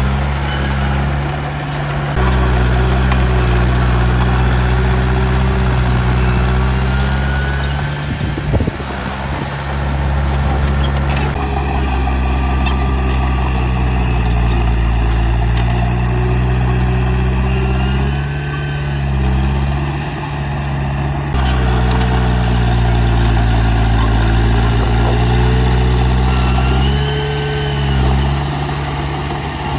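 Heavy diesel engine of earthmoving machinery running, its pitch dipping and rising several times as the load changes, with a sharp clunk about eight seconds in.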